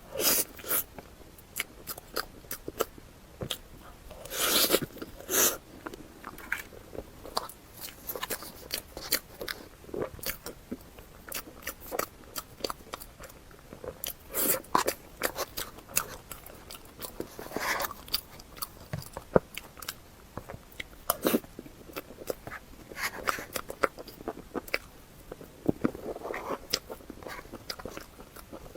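Close-miked eating: a person chewing and biting food, with irregular crunchy clicks and wet mouth sounds throughout and a few longer, louder crunches.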